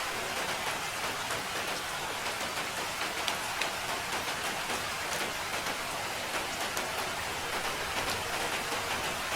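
Steady rain falling, a dense hiss with many individual drops ticking on a surface.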